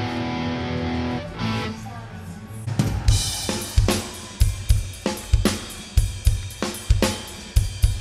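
Live punk rock band playing: electric guitar and bass hold ringing chords, then about three seconds in the drum kit comes in with a steady beat of kick drum, snare and cymbals.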